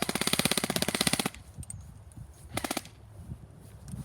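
Airsoft gun firing on full auto: a rapid burst of shots lasting just over a second, then a second short burst about two and a half seconds in.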